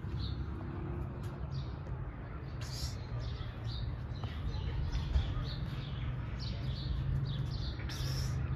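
Small birds chirping repeatedly, short high calls scattered throughout, over a steady low rumble. Two brief bursts of hiss come about three seconds in and near the end.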